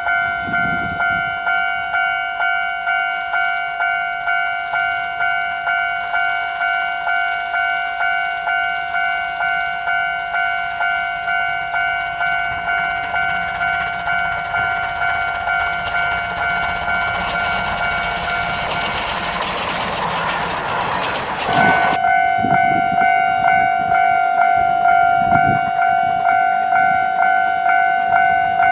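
Japanese railway level-crossing alarm ringing about twice a second with a steady two-tone clang. A steam locomotive's rushing noise swells over it for a few seconds before an abrupt cut to another crossing alarm ringing at a slightly different pitch.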